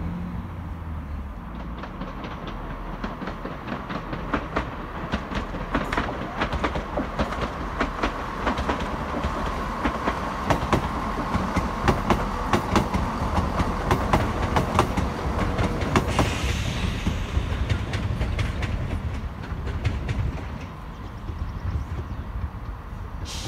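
Diesel multiple unit running past on jointed track: a steady low engine rumble with a dense run of wheel clicks over the rail joints, loudest midway and fading off after the train has gone by.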